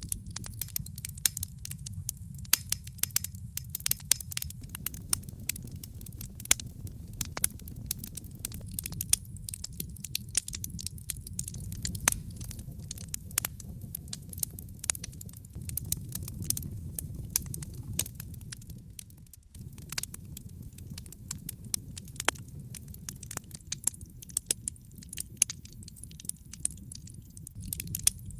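Wood fire crackling in a fireplace: frequent irregular sharp snaps and pops over a low steady rumble of the burning logs.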